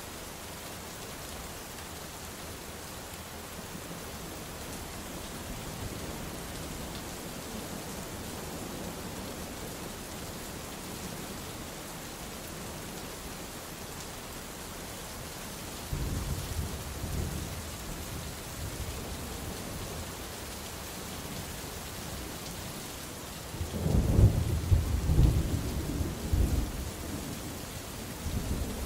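Steady rain hissing, with thunder rolling in twice: a short rumble about halfway through, then a louder, longer rumble with several cracks and peaks near the end.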